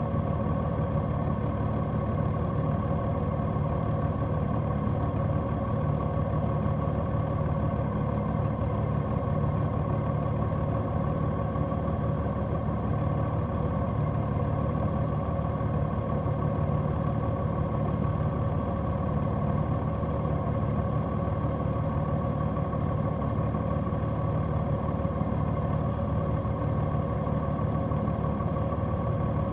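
Large motorcycle's engine running steadily at an even pitch.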